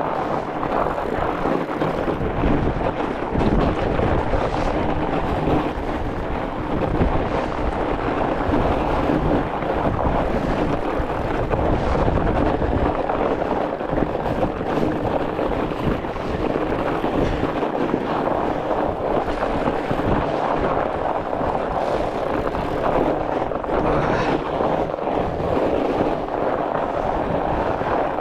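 Strong wind buffeting the microphone while a fatbike rolls over the frozen lake, with the steady rumble of its studded tyres on ice and snow.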